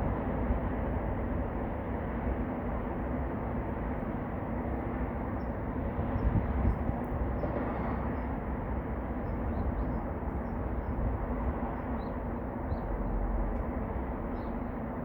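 Steady low rumble of vehicle noise with no clear starts or stops, and faint short high chirps in the second half.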